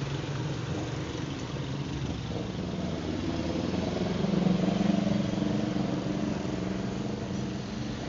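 A vehicle engine running steadily, growing louder about four to five seconds in, then easing off again.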